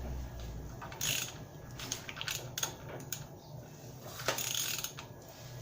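Used engine turned over by hand with a ratchet wrench on the crankshaft, the ratchet clicking in runs with two louder surges about one and four seconds in. The engine turns freely, with compression felt on all cylinders, a sign it is not seized.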